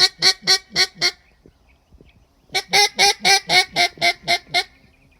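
Handmade mallard duck call blown in two runs of loud quacks, about four a second: the first run ends about a second in, the second runs from about two and a half to four and a half seconds in.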